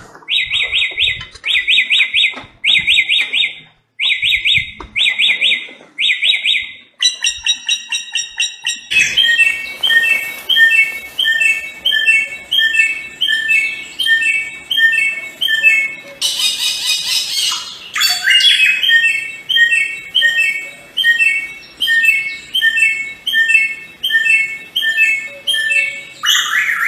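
Samyong songbird singing: a string of short trilled phrases repeated about twice a second, then a faster run of short repeated notes, with one brief harsh high call partway through.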